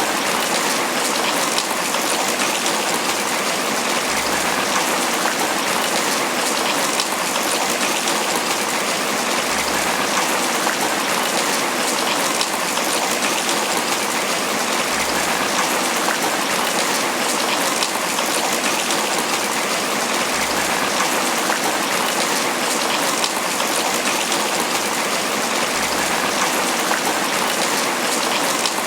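Steady tropical rain falling on banana leaves: a dense, even hiss of many drops striking the leaves.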